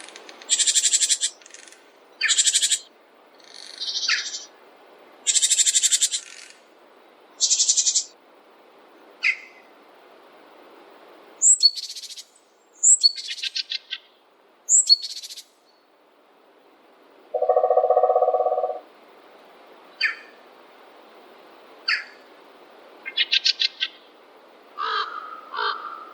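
Forest birds calling: a run of short, high chirps and fast rattling trills, one after another. About 17 seconds in comes one lower, longer call. A faint steady hiss runs beneath.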